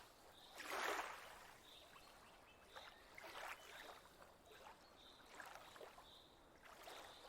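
Faint, gentle water lapping at a lake shore, coming in soft irregular swashes about once a second.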